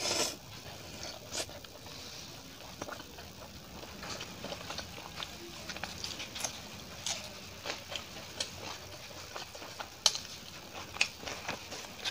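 Close-miked eating sounds: a person chewing a mouthful of poori and curry, with many short wet clicks and lip smacks and a louder burst right at the start.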